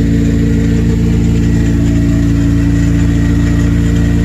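Honda K-series four-cylinder, freshly swapped into a four-door car, idling steadily just after its first start-up.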